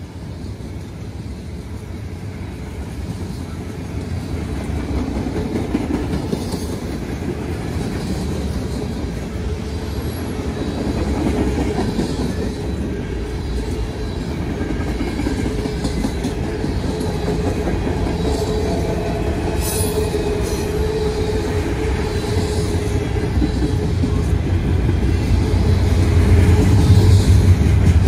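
Freight cars of a long manifest train rolling past: tank cars, refrigerator boxcars and covered hoppers, with a steady wheel rumble and clatter on the rails that gradually gets louder.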